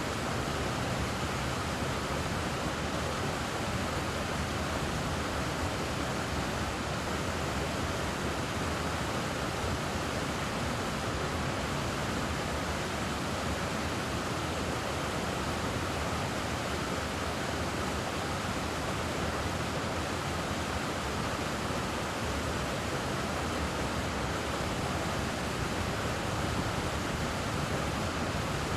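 Steady rush of flowing stream water, an even hiss with no changes and no distinct calls standing out.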